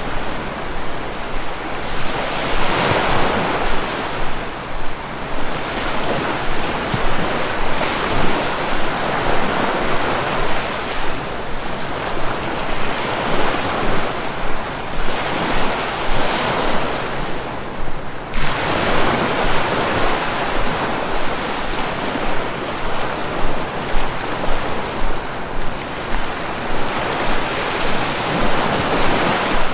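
Sea waves breaking and washing on the shore, a continuous surf that swells and eases every few seconds.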